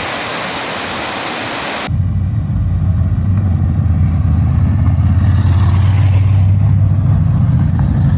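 A steady rushing noise cuts off abruptly about two seconds in and gives way to the steady low drone of a vehicle engine running, growing slightly louder.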